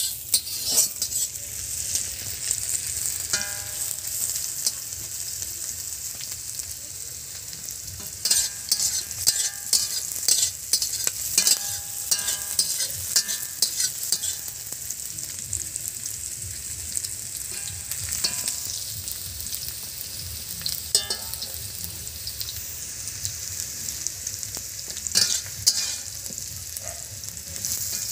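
Rings of snake gourd sizzling steadily as they fry in oil in a black wok. A metal spatula scrapes and clatters against the pan as they are stirred, most busily in the middle and again near the end.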